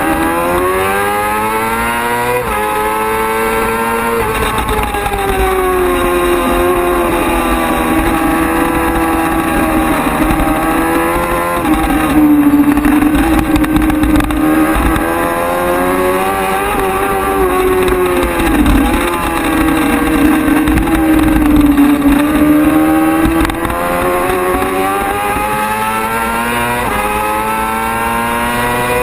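Racing motorcycle engine running hard, its pitch climbing under acceleration and dropping sharply at each gear shift, then falling and rising again through corners. A steady low rumble sits underneath.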